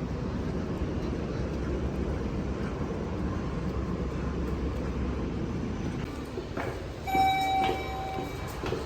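A train rumbling past. About seven seconds in, a steady high tone sounds for about a second.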